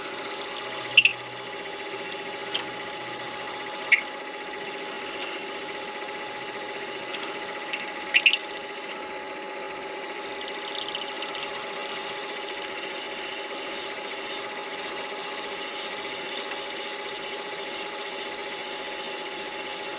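Midi lathe motor humming steadily while sandpaper rubs against the spinning acrylic pen blank, with a few brief, sharp high sounds in the first half.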